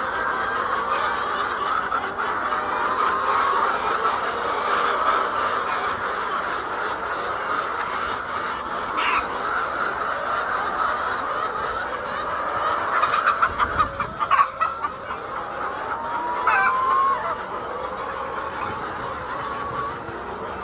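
A large flock of laying hens clucking and chattering continuously. About two-thirds of the way through comes a quick run of sharp knocks, and a little later one short rising call stands out.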